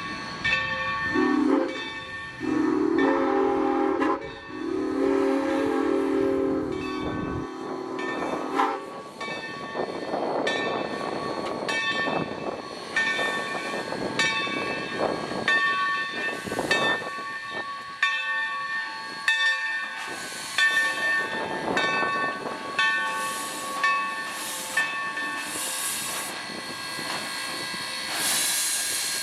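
2-8-2 Mikado steam locomotive sounding its chime whistle: one short blast, then two long ones. After that, its exhaust chuffs about once a second as it works its train, with steam hissing.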